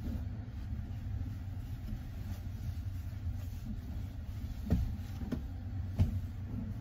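Steady low rumble of the Sunrise Izumo/Seto sleeper train, a 285 series electric train, heard inside a sleeper compartment. A few short knocks sound near the end, the sharpest about six seconds in.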